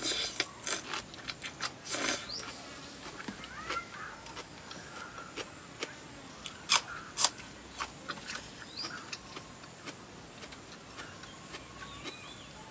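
Someone eating papaya salad mixed with fresh rice noodles: chewing with a scatter of short wet mouth clicks and smacks, two sharper ones about seven seconds in. Faint bird chirps can be heard in the background.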